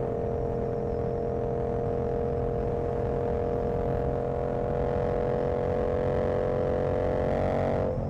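Yamaha R7's 689 cc CP2 parallel-twin engine running under way with road and wind rumble underneath. Its pitch climbs slowly over the second half, then drops sharply near the end.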